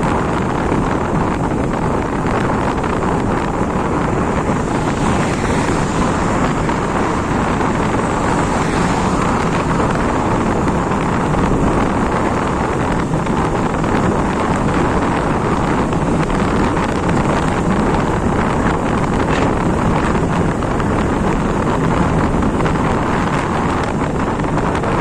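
Steady wind rushing over the microphone on a moving bike, an even loud roar with no break.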